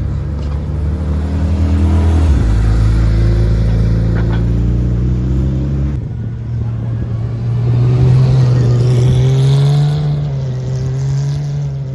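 Porsche sports car engine running loud and low, its note changing abruptly about two and six seconds in, then rising in pitch as it accelerates in the second half.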